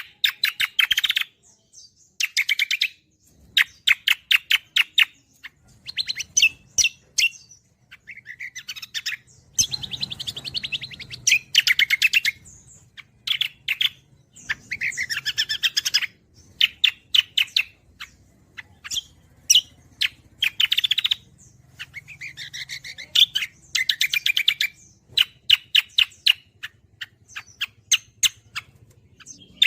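Cucak kombo songbird singing in bursts of rapid, trilled chattering: fast strings of sharp notes grouped in phrases a second or two long, with short pauses between.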